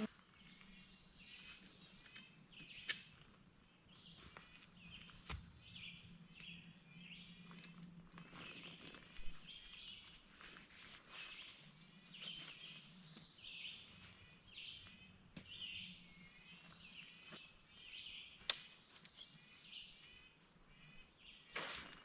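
Birds chirping in short, high, repeated calls, faint, with a few sharp clicks or knocks scattered through.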